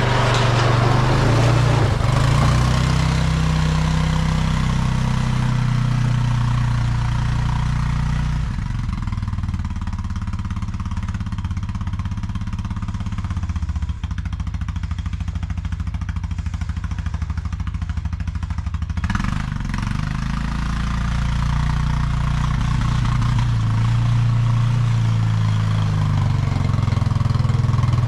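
ATV engine running while plowing snow. The engine note eases off about eight seconds in and picks up again about two-thirds of the way through.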